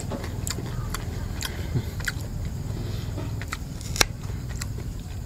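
A person chewing and biting pork ribs, with scattered short clicks and smacks of eating. A fork strikes the plate with a sharp clink about four seconds in, over a steady low hum.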